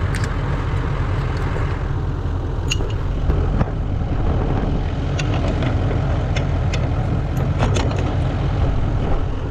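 Pickup truck engine idling steadily with a low, even hum, while a few short light clicks and knocks sound over it as the snowplow blade's jack is worked.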